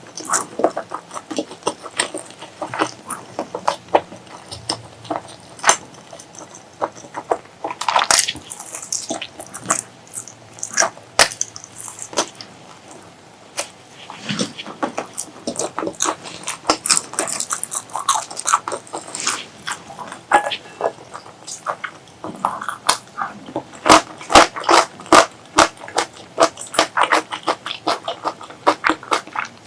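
Close-miked eating sounds: irregular chewing with wet mouth clicks and smacks, dense and uneven, with a few longer wet smears that fit slurping.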